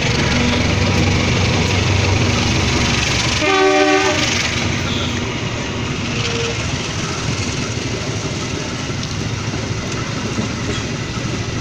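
Train passing with a steady rumble, sounding its horn once briefly about three and a half seconds in.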